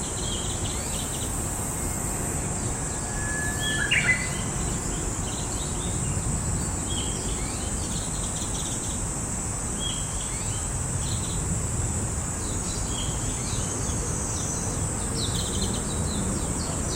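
A Japanese bush warbler sings once about three to four seconds in: a long held whistle that breaks into a quick higher flourish, the loudest sound. Around it, a steady high insect buzz and many short bird chirps continue.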